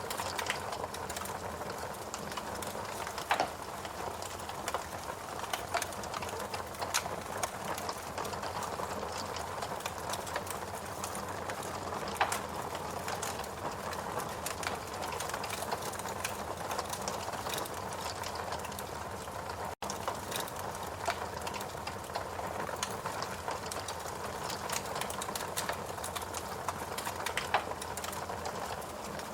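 Fireplace crackling: scattered sharp pops and snaps over a steady hiss, with a momentary break in the sound about twenty seconds in.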